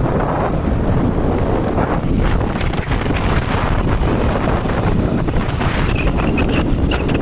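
Wind buffeting the microphone while riding a motorcycle, a steady loud rushing rumble with vehicle noise underneath.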